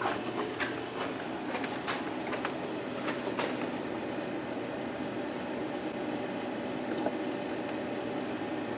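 A steady low mechanical hum with scattered clicks and small knocks in the first few seconds and once more near the end.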